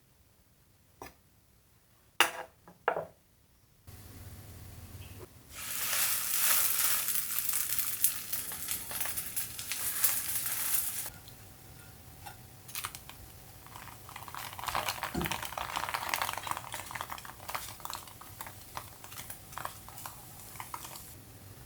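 Cooking in a pan: a few sharp clicks of utensils, then loud sizzling for about five seconds, settling into quieter sizzling with stirring and clinks of a utensil against the pan.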